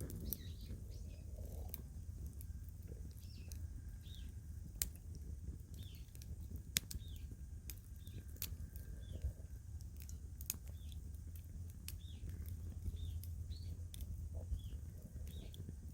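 Twig fire crackling in a small titanium wood-burning stove, with sharp irregular pops every second or so. A bird chirps over and over in short falling notes, and a low steady rumble runs underneath.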